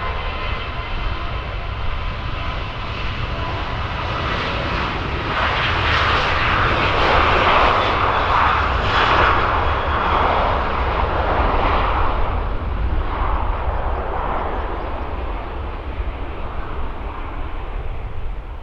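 An aircraft passing by. The engine roar swells to its loudest around six to twelve seconds in, then fades.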